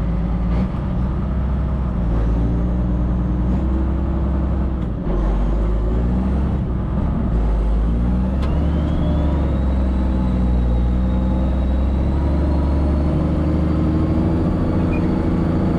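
Case 2670 tractor's turbocharged six-cylinder diesel engine running steadily, its note shifting and getting a little louder about five seconds in. A faint high whine rises from about eight seconds in.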